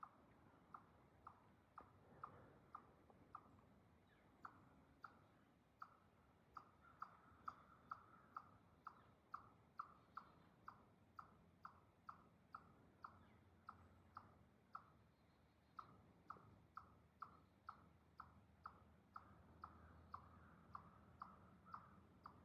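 Faint regular clicking, about two sharp clicks a second, keeping an even pace throughout.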